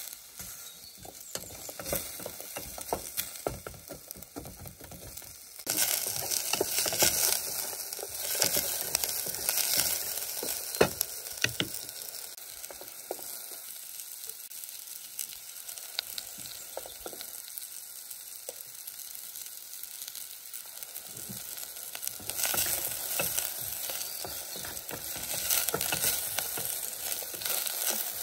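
Food sizzling as it fries in a pan, with scattered taps and scrapes of a utensil stirring it. The sizzle grows louder about six seconds in, eases off midway and swells again near the end.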